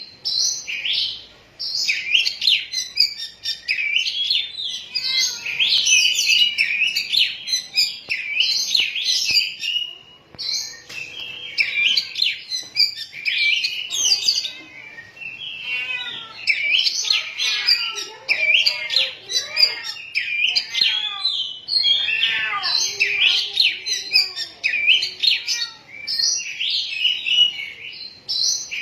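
Oriental magpie-robin (kacer poci) singing on and on: a long, varied run of loud whistles, trills and chattering notes, broken by short pauses about a second and a half in and about ten seconds in.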